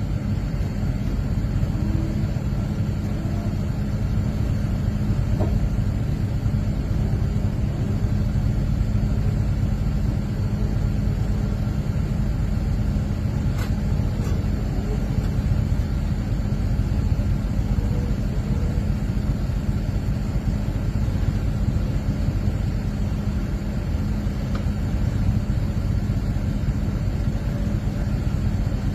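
Vehicle engine running steadily at constant speed, a low even drone with no change in pitch, with a couple of faint clicks about halfway through.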